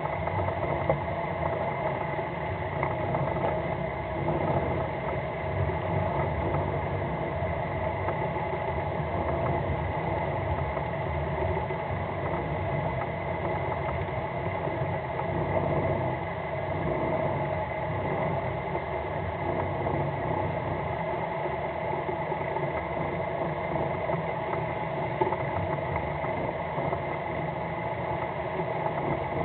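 Fishing boat's engine running steadily at low revs, an even drone with several steady tones over a rough low rumble.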